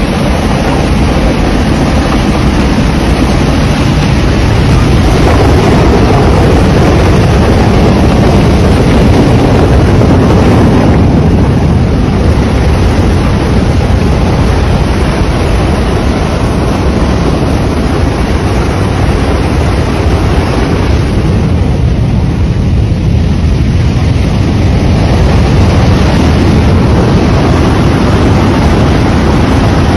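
A rock-laden flood (debris flow) rushing past: a loud, steady, low rumbling noise that eases slightly twice before building again.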